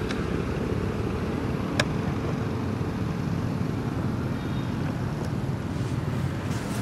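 Steady low outdoor background rumble, with a single sharp click about two seconds in.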